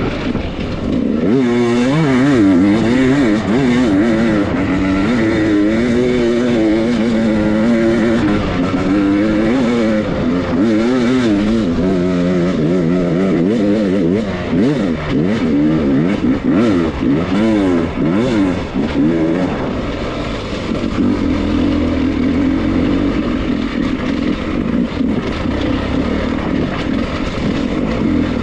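Dirt bike engine under constant throttle changes, its pitch rising and falling every second or so as the rider works through technical off-road terrain. About two-thirds of the way through, it settles into a steadier, more even run.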